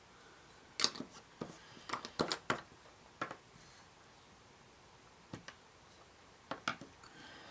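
Small plastic model-kit parts clicking and tapping as they are handled and pressed together: a quick run of sharp clicks about a second in, then a few scattered single clicks.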